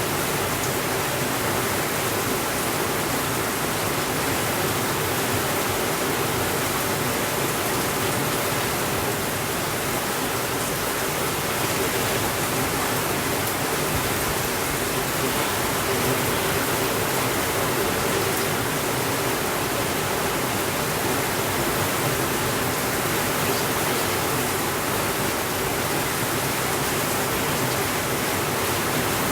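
Heavy rain falling as a steady, even hiss with no thunder.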